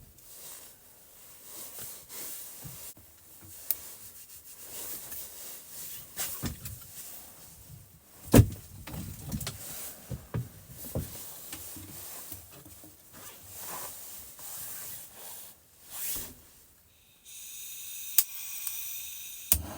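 Firewood and kindling being handled and loaded into a wood stove: rubbing and rustling of wood with scattered knocks, one louder knock about eight seconds in. Near the end this gives way to a steady hum with several high tones.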